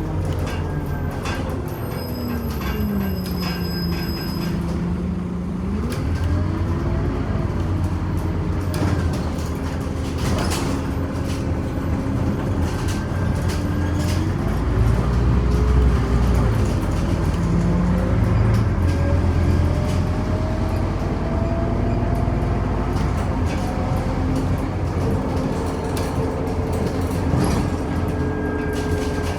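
Scania OmniCity city bus under way, heard from inside the cabin. Engine and drivetrain whine rises and falls with the bus's speed, over a low rumble with scattered clicks and rattles.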